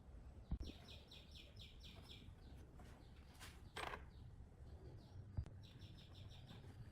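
A small songbird giving two faint runs of quick repeated chirps, about six a second, with a couple of soft low thumps between them.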